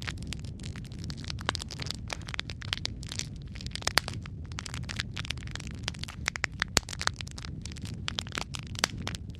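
Wood fire crackling in a fireplace: irregular sharp pops and snaps over a steady low rumble of burning, with a few louder pops.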